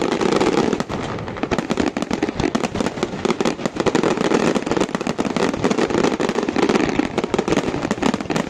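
Fireworks display going off: a dense, continuous crackle of many rapid pops and bangs with no pause.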